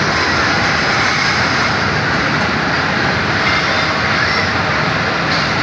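Electric KRL commuter train running along the tracks, a loud, steady rush of running noise.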